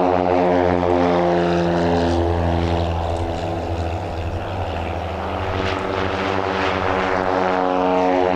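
Propeller aircraft engines running, a steady low drone that pulses with a beat.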